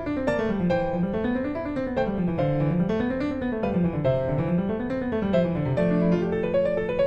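Background piano music, with notes running up and down in repeated waves over a low bass line.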